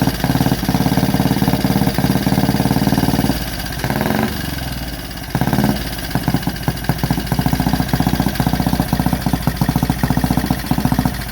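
1928 Benelli 175 Turismo motorcycle engine running with fast, even firing, now that it has cleared out after a cold start. About three and a half seconds in it drops away. It picks up briefly, then settles to a slower, uneven idle with separate firing beats.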